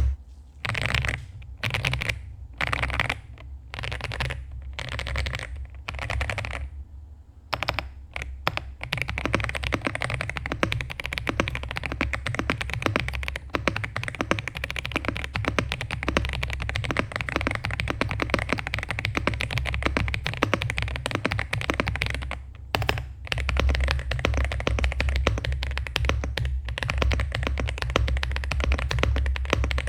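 Monka 3067 mechanical keyboard being typed on, its keys clacking. At first it comes in short separate bursts with gaps between them, and after about nine seconds it turns into fast continuous typing, with one brief pause about two thirds of the way through.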